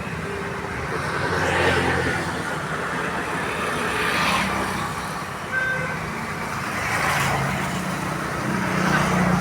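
Road traffic: engines humming with vehicles passing one after another, swelling and fading every few seconds.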